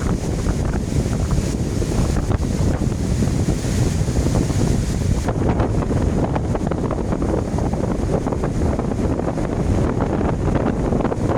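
Strong wind buffeting the microphone, a steady low rumble with gusty surges.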